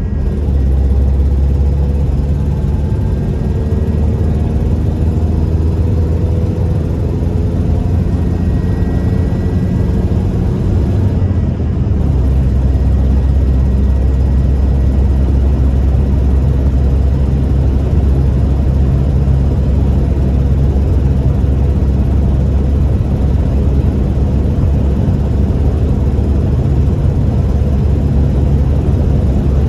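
1998 Toyota Tacoma 4WD pickup on the move: a steady, loud low drone of engine and road noise, with the engine note rising in the first few seconds and settling lower about twelve seconds in.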